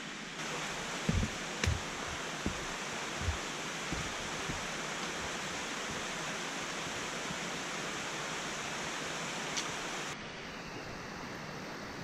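Steady rush of falling water from a waterfall and its creek, with a few low thumps in the first few seconds; the level steps up about half a second in and drops near the end.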